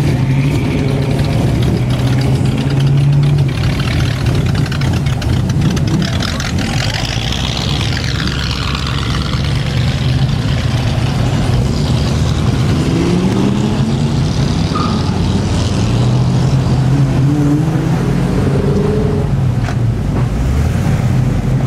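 Car engine running, mostly idling, with a few rising revs about midway and again near the end.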